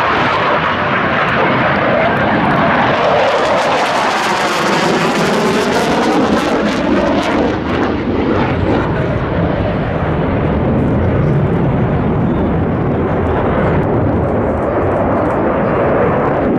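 Loud, continuous jet noise from F/A-18 Hornet fighter jets passing by: the rush grows brighter and hissier about four to seven seconds in as they come closest, with a sweeping, phasing quality. It then settles into a deeper rumble as they move away.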